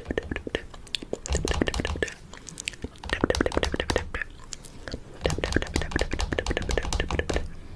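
Fingernails tapping rapidly on a camera in three bursts of sharp clicks, each a second or two long, mixed with mouth sounds.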